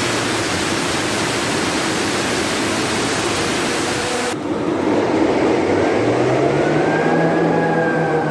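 Large old diesel engine starting. A loud rushing hiss lasts about four seconds, then the engine note takes over and its pitch rises and levels off as it comes up to speed.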